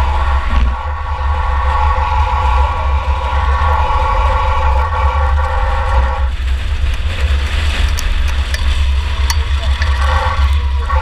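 Inside the 2004 Chevy Impala demolition derby car running at speed: a steady, loud engine and road rumble, with a higher steady engine note on top that breaks off about six seconds in and returns near the end. A few sharp ticks sound a couple of seconds before the note comes back.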